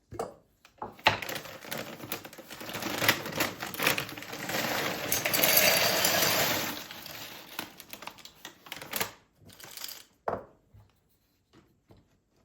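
Objects being handled: a run of sharp clicks and knocks, with a denser rattling rustle in the middle that fades out near the end.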